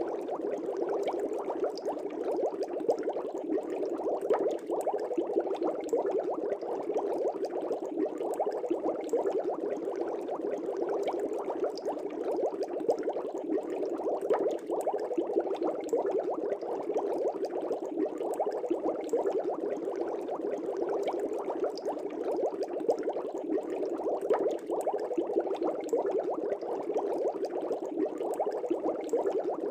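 Aquarium air bubbles streaming up through the tank water in a steady, dense bubbling.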